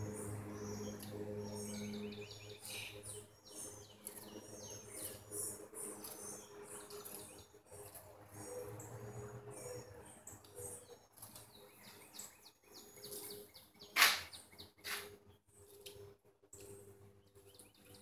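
Small birds chirping in short, high, repeated notes, over a steady low hum, with one sharp louder knock or scrape about fourteen seconds in and a smaller one just after.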